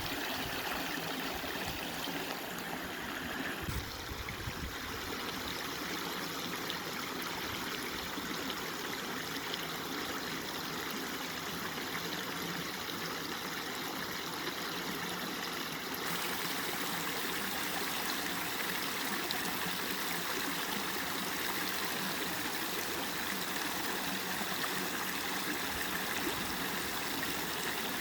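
River water flowing and rushing steadily. The sound gets slightly louder and brighter about halfway through.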